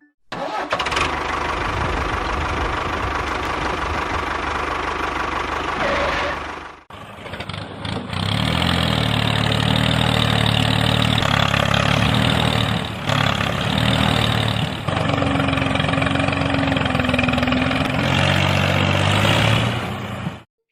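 Engine running steadily. It drops out about seven seconds in and comes back a second later with a deeper, heavier hum.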